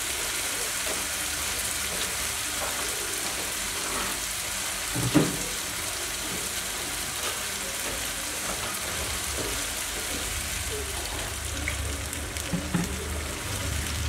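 Tomato, onion and pepper masala sizzling steadily in a non-stick frying pan, with a short loud knock about five seconds in.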